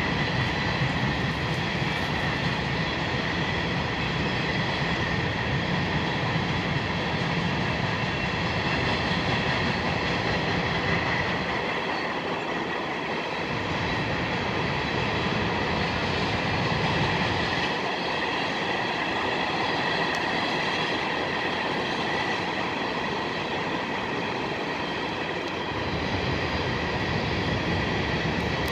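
Train cars rolling past on steel wheels: a continuous rail rumble with a steady high ringing tone over it. The low rumble thins out briefly about twelve seconds in and again for several seconds later on.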